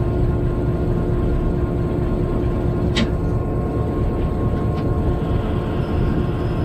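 Steady low rumble and hum of a freight train heard from inside the locomotive cab while running, with one short sharp click about three seconds in.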